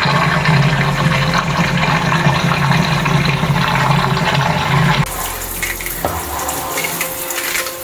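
Water gushing loudly with a low hum, typical of a washing machine taking in or running water. About five seconds in it cuts to a softer running-water sound with faint background music.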